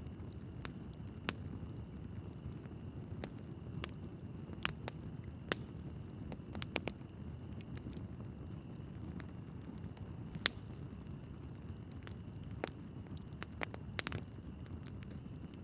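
Wood fire burning in a fireplace: a steady low rumble of flames with irregular sharp crackles and pops from the logs, one louder pop about ten seconds in.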